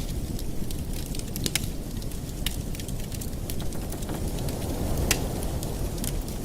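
Wood fire in a fireplace crackling, with irregular sharp pops and snaps, a few louder ones, over a steady low rumble.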